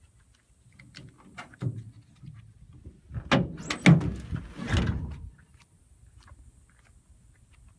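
A 2007 Dodge Ram 2500 pickup's door being opened: a few light clicks, then a cluster of sharp latch clicks and knocks about three to five seconds in.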